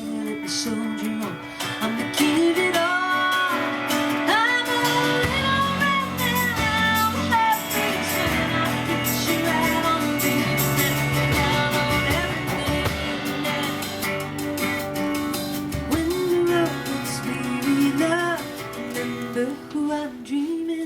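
Live band music: guitar with a melodic line that bends in pitch, and low bass notes joining about five seconds in.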